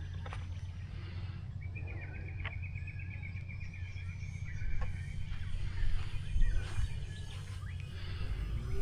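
Wind rumbling on the microphone, gusting harder about two-thirds of the way through. A bird gives one long trilled call from about a second and a half in for nearly three seconds, among a few short chirps.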